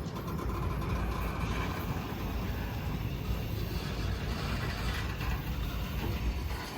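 Steady low rumble of a vehicle, with no distinct strokes or tones.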